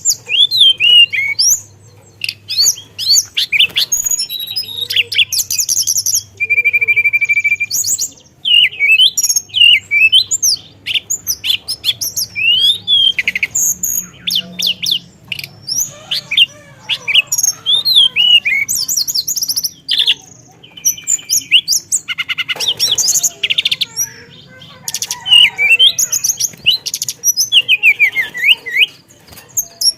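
A teledekan songbird singing non-stop in a long, rolling song: a rapid, varied run of whistles, chirps, fast trills and swooping notes, with borrowed calls of other birds woven in.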